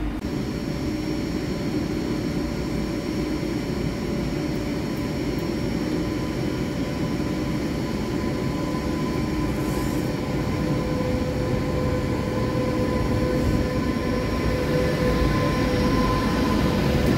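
Trains running slowly into the platform: first a DB Regio LINT diesel multiple unit, then a DB Class 101 electric locomotive hauling Swiss SBB coaches. A steady rumble with a few held whining tones, louder toward the end as the locomotive draws past.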